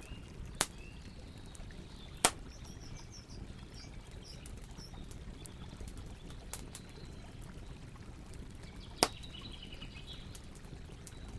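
Campfire crackling, with three sharp pops standing out over a steady rush of river water, and faint bird chirps in between.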